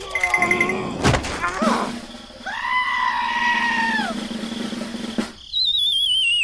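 Cartoon-style sound effects: short pitched voice-like calls and a sharp hit about a second in, then a held bleat-like call, and near the end a warbling whistle that slides steadily down in pitch.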